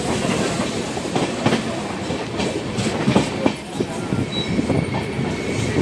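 Indian Railways passenger coach running along the track, heard at an open window: a steady rumble with irregular clickety-clack knocks of the wheels over rail joints. A faint thin high tone comes in near the end.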